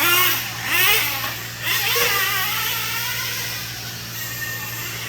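Small nitro engines of RC racing trucks revving up and down in quick, overlapping pitch glides, then running steadier and fading off toward the end.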